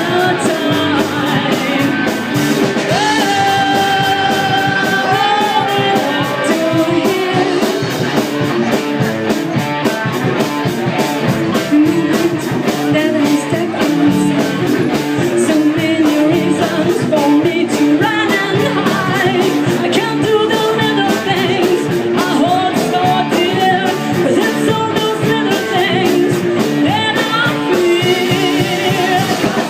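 Live rock band playing a song with a lead singer, with steady full-band music and long held vocal notes; the recording has little deep bass.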